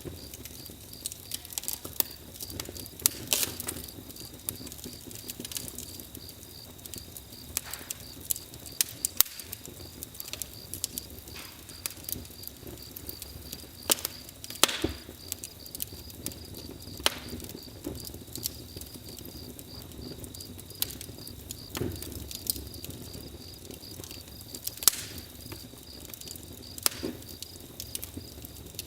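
Wood fire crackling, with irregular small pops and a few louder snaps, over a steady high chirring of crickets.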